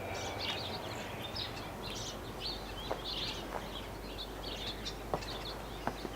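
Small birds chirping and twittering over steady outdoor background noise, with a few sharp taps now and then.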